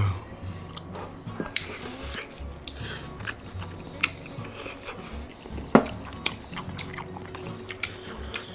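Close eating sounds of fufu and braised mackerel: chewing, wet mouth noises and scattered small clicks, one sharper click about six seconds in, over quiet background music.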